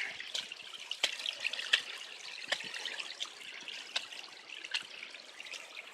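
Running water trickling steadily, with scattered light clicks and taps over it.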